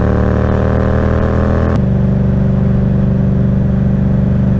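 Motorcycle engine running under way, heard from the rider's seat. Its note climbs slowly, then about two seconds in it drops abruptly and holds steady at a lower pitch.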